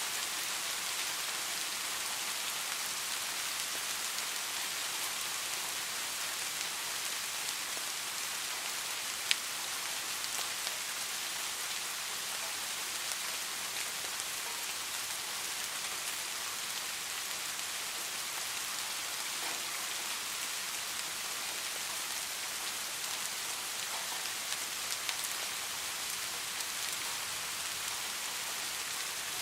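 Steady rain: an even hiss with scattered drop ticks, and one sharp click about nine seconds in.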